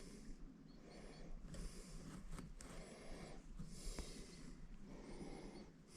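Soft, faint breaths repeating about once a second, close to the microphone.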